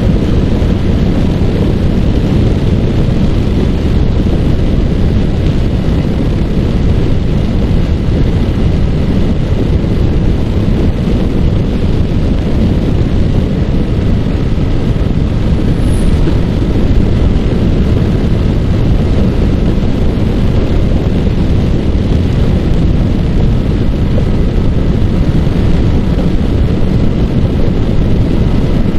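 Yamaha R15's single-cylinder four-stroke engine running steadily at riding speed, with loud, steady wind noise on the microphone over it.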